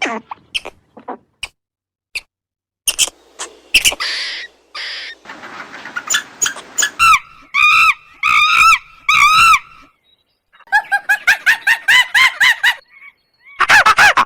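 A sequence of bird calls: short chirps, then a run of repeated rising-and-falling pitched notes, then a fast series of short chirps, broken by abrupt gaps.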